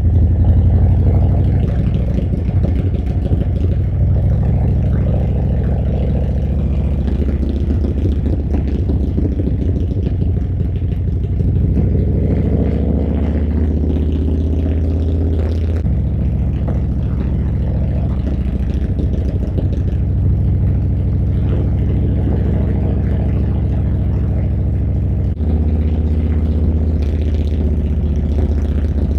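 Harley-Davidson V-twin motorcycle engine running under way, its pitch rising and falling with the throttle, with a brief break in the sound near the end.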